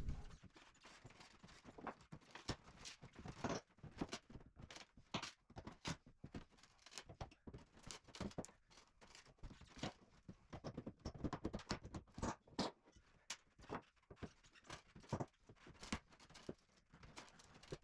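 Wooden floorboards being pried up and pulled loose: faint, irregular knocks, clicks and cracks of wood, a few each second.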